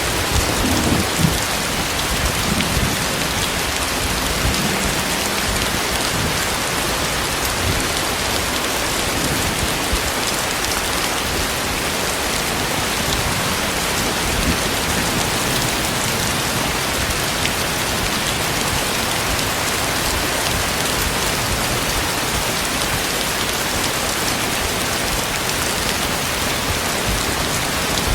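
Heavy tropical rain falling steadily, a dense even hiss of rain on surfaces, with a few low rumbles in the first few seconds.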